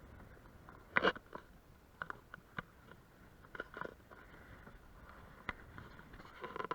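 Canoe paddling: scattered knocks and clicks of paddles against the hull, with a short swish of a paddle stroke about a second in, again near the middle and again near the end.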